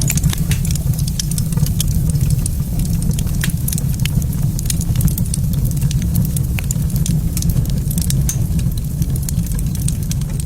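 Wood fire crackling in a fireplace, with frequent sharp pops and snaps over a steady low rumble.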